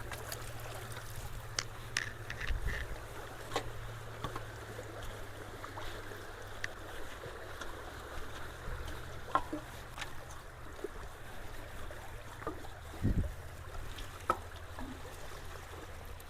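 Stream water rushing steadily through a road culvert, with scattered small knocks and snaps.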